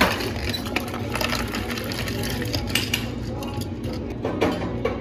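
Cafe drink-making sounds: a steady machine hum with many small clicks and clinks of utensils and containers.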